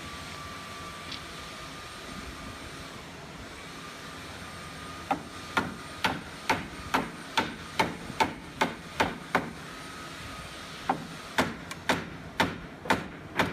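Hammer striking wood in a steady run of blows, a little over two a second. The blows start about five seconds in, pause briefly, then resume.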